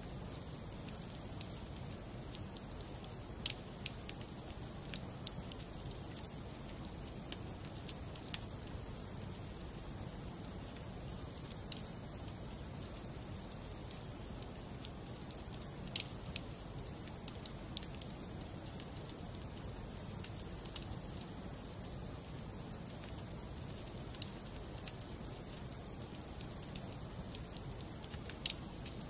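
Wood burning in a fireplace: a steady low rush of flames with irregular sharp crackles and pops from the burning logs.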